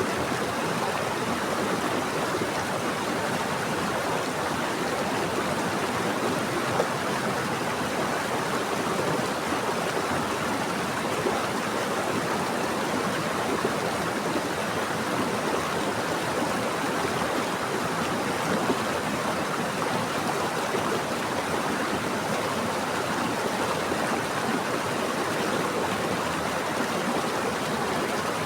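Stream water flowing steadily over rocks, a continuous rushing and burbling with a few small splashes.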